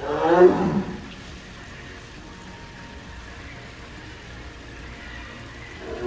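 A large animal gives one loud, low, moaning call lasting under a second at the start, over a steady low background.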